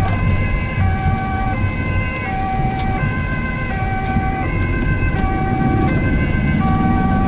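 Ambulance two-tone siren heard from inside the cab, alternating between a high and a low pitch about every two-thirds of a second, over the vehicle's engine and road noise; the engine note rises near the end.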